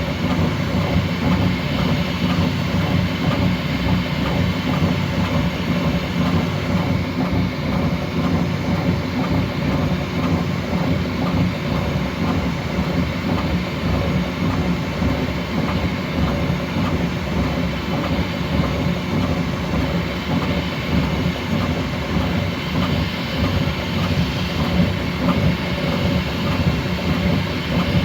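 Bambu Lab X1C 3D printer printing at its fastest speed setting: a steady hum of the motion motors and cooling fans, with a dense, rapid flutter and rattle from the fast-moving print head.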